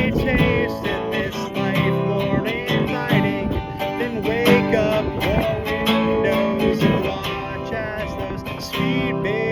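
Acoustic guitar strummed steadily through a folk song's chords, with a melody line that slides and wavers in pitch above it.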